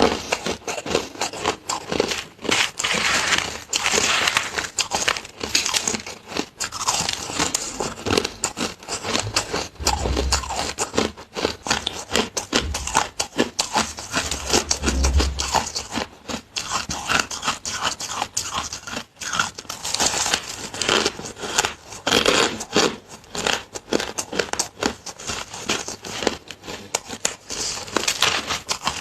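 Close-up biting and crunching of flavoured shaved ice, a dense run of crisp crunches and crackles that goes on without a break.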